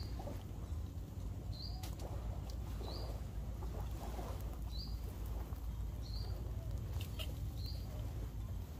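A bird repeating a short, high chirp every second or two, over a steady low rumble.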